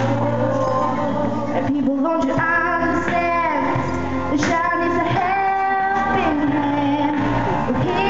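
A song: a voice singing long held notes with vibrato over backing music.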